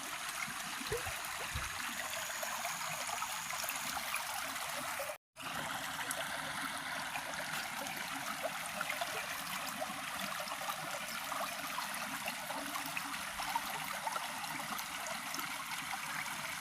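Steady rush of flowing river water, broken by a brief cut to silence about five seconds in.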